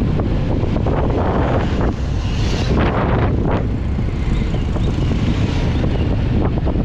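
Wind buffeting the microphone of a moving vehicle, with the vehicle's engine and road noise running underneath.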